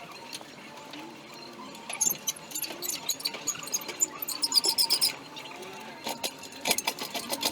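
Engine hoist lowering a Ford flathead V8. Its rigging makes a quick run of light metallic clicks and rattles over faint low creaks, then a second shorter run near the end.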